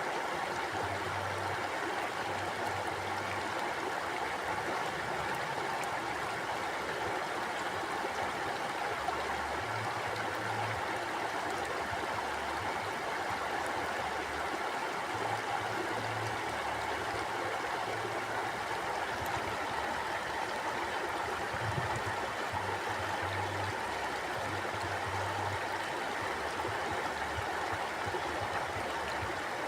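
Mountain stream flowing, a steady unbroken rush of water.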